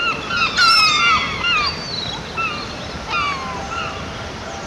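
Birds calling: many short calls that rise and fall in pitch, repeating over a steady background hiss, with one loud call about half a second in.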